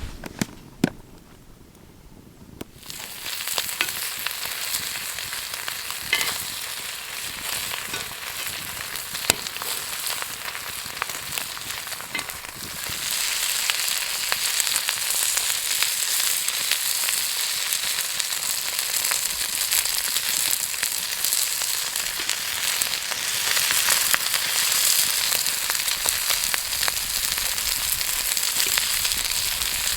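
Gopchang and makchang (beef intestines) sizzling and spitting fat on a hot grill. The sizzle starts about three seconds in after a couple of sharp clicks, and grows louder about halfway through.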